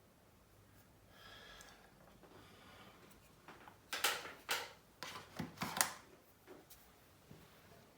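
Close-up clicks and short scrapes of small tools and parts being handled on a smartphone during a hands-on repair. They come as a quick cluster about halfway through, with a few softer clicks after.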